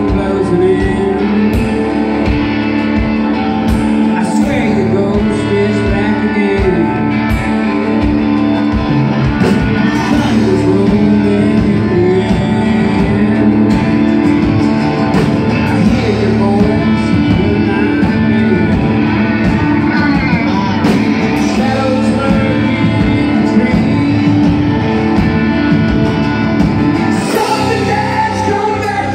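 Rock band playing live: a voice singing over guitar and a steady drum beat.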